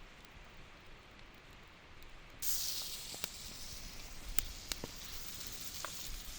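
Open wood campfire crackling: a steady hiss with a few sharp pops, which starts suddenly a little over a third of the way in after a fainter hiss.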